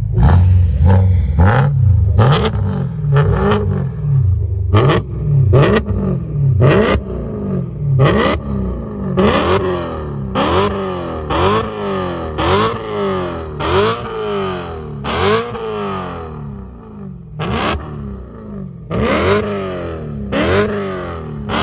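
A car engine revved over and over in quick blips, each rising and then falling in pitch, with sharp cracks between the revs.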